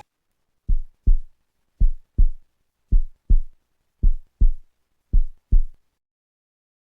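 Heartbeat sound effect: five low lub-dub double thumps, a little under one a second.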